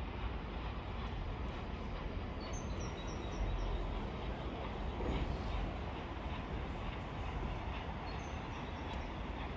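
A train running past, a steady rumble with no clear beat. A bird gives a short run of high chirps twice, about two and a half seconds in and near the end.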